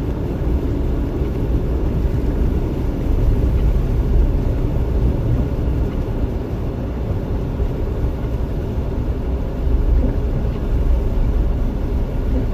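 Jeep Wrangler driving on snowy roads, heard from inside the cabin: a steady low rumble of engine, tyres and road noise.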